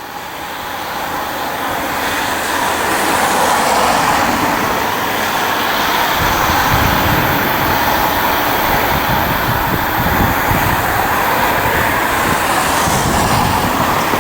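Freight train drawn by a DF200 diesel-electric locomotive with container wagons, approaching and running past. The noise builds over the first few seconds, then holds steady, with a deeper rumble coming in about halfway through.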